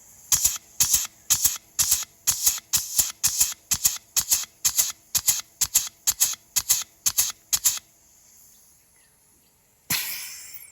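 Tecalemit air-operated grease gun pumping on compressed air, a sharp hiss of exhausting air on each stroke at about two and a half strokes a second. The gun is working and pumping grease. The strokes stop about eight seconds in, and a single longer hiss of air comes near the end.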